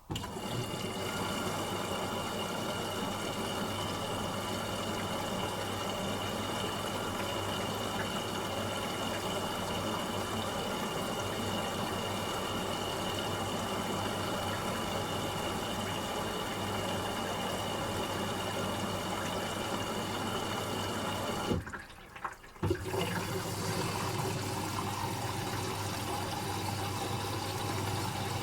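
Asko Quattro W6098X washing machine taking in water for the final rinse: the inlet valve opens suddenly and a steady rush of water runs into the machine over a faint hum. About 22 s in the flow cuts out for roughly a second, then starts again with a slightly different sound.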